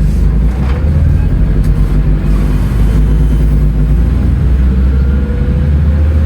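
Scania N310UA articulated city bus's diesel engine running, with its ZF Ecomat six-speed automatic gearbox. A faint whine rises slowly in pitch over the last second or so as the bus picks up speed.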